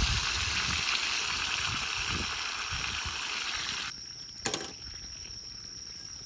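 Steady rushing noise, like running water or sizzling, that cuts off abruptly about four seconds in. A quieter background follows, with a steady high-pitched tone and a single sharp click.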